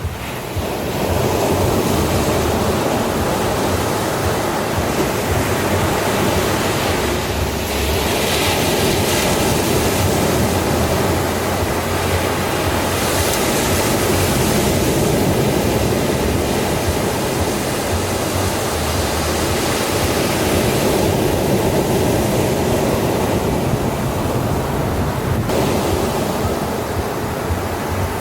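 Ocean surf washing continuously, a dense steady rush of waves that swells up about a second in and then holds at an even level.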